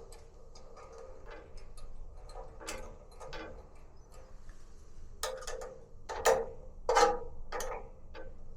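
Irregular clicks and light taps of tools and small parts being handled, with a few louder knocks in the second half.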